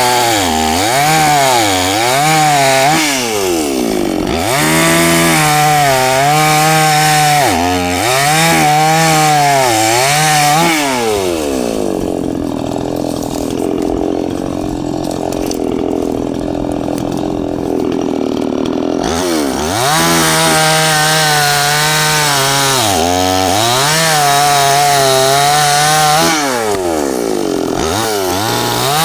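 Chainsaw cutting through branches, its engine pitch dipping under load and climbing again over and over as the chain bites and clears. For several seconds in the middle the engine drops to a lower, steadier sound before cutting resumes.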